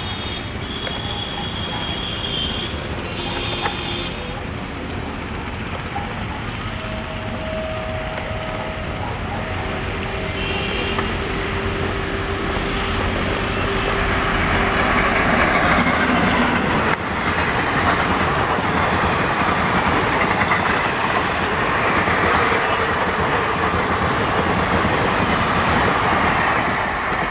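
Electric-hauled Indian Railways passenger train running on the track. The rumble of its wheels on the rails builds from about halfway through and stays loud as the coaches pass close by at speed, with one sharp click a few seconds after the peak begins.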